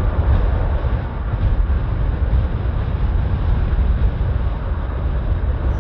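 Strong gusty wind buffeting the microphone: a loud, steady rushing with a heavy flickering low rumble.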